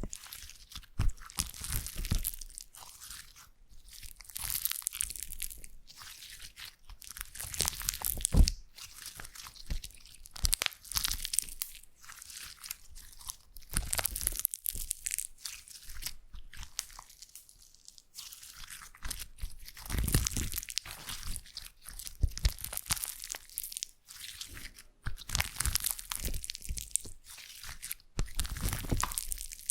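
Slime being worked by hand, giving irregular bursts of crackly, clicky, squelching noise that come and go every second or so.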